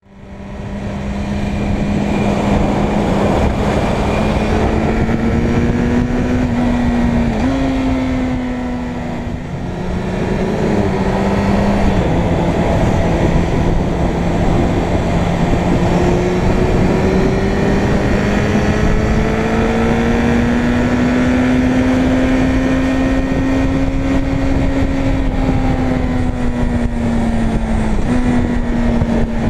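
Suzuki Bandit 600 N's inline-four engine pulling under way, with wind noise over it. The engine note rises and falls with the throttle, and it steps sharply with gear changes: up about 7 seconds in, down about 12 seconds in, and up again near the end.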